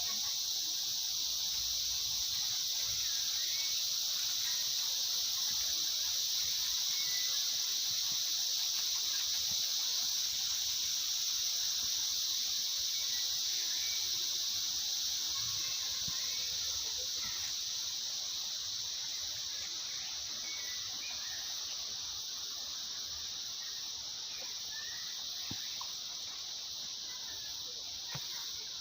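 Outdoor insect chorus: a continuous high-pitched buzzing drone that holds steady and eases off slightly in the second half, with faint short chirps beneath it.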